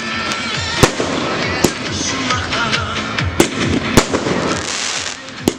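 Festive fireworks bursting overhead: about five sharp bangs, spaced irregularly, over a continuous crackle of smaller bursts.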